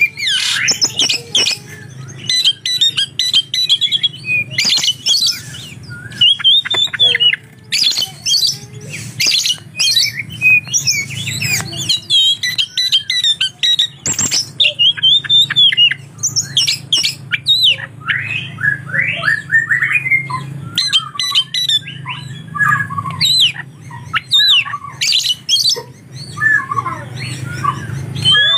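Oriental magpie-robin (kacer) singing continuously: a fast, varied run of whistled glides, chatter and harsh squawks, with mimicked lovebird calls in its song. A steady low hum sits beneath.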